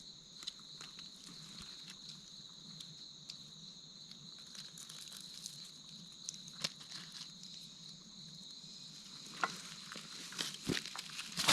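Insects trilling steadily in a high, even drone, with scattered small crackles and snaps that come thicker and louder in the last couple of seconds.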